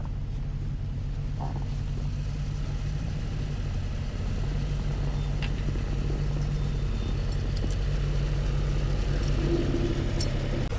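Truck engine running steadily at low revs while the truck backs up, a little louder from about four seconds in.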